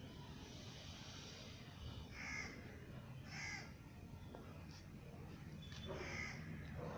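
A bird calling: three short calls, two about a second apart and a third near the end, over a faint steady low background hum.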